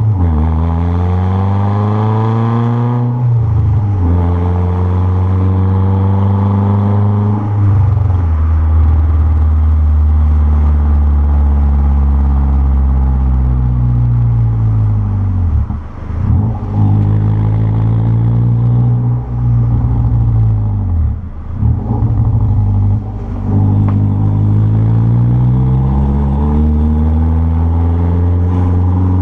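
Renault Clio 1.6 16v K4M four-cylinder engine through a 2-inch straight exhaust, loud, its pitch falling and rising again several times. It briefly drops off twice in the second half.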